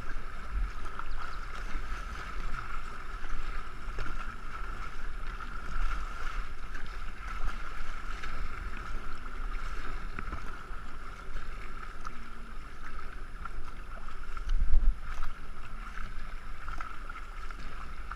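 Two-man racing canoe being paddled down a river: steady rush of water along the hull and paddle splashes, with wind buffeting the camera microphone. A louder gust or splash comes about fifteen seconds in.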